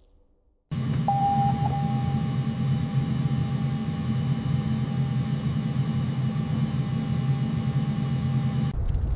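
A steady low rumble with a thin, steady high whine over it, starting abruptly about a second in and cutting off suddenly near the end.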